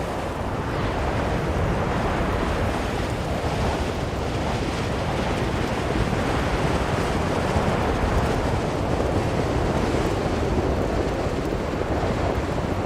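Blizzard wind blowing hard and steadily, a dense rushing noise that swells and eases a little in slow gusts.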